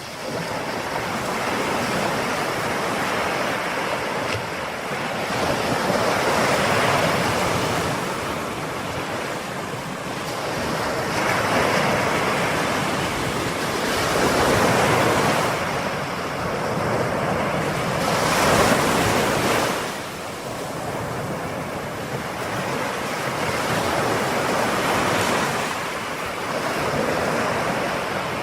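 Ocean waves breaking and washing up the shore, rising and falling in slow surges about every six seconds.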